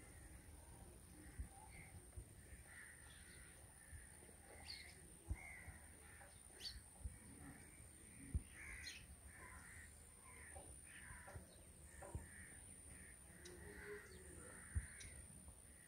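Birds calling faintly and repeatedly in short, irregular calls, with a few brief low thumps.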